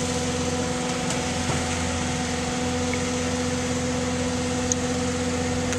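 Engine running steadily: an even hum with a constant droning tone.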